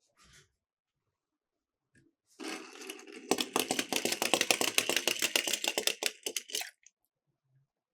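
Miniature toy cars rolling down a slope with a fast, clicking rattle that starts about two and a half seconds in, grows louder and stops abruptly near the end.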